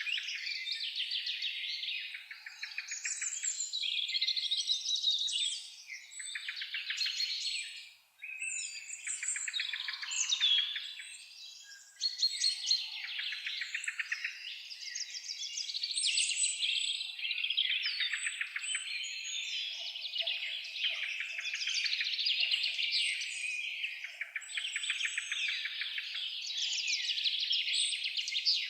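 A dense chorus of songbirds, several birds singing at once in rapid trills and chirps, with a couple of brief lulls.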